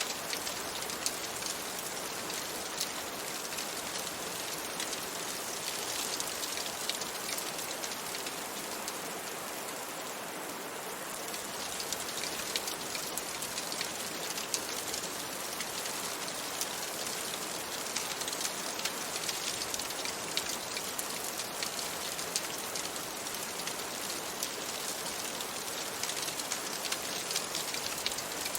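Steady rain, a dense even hiss of falling drops scattered with many small sharp ticks, easing slightly for a moment near the middle.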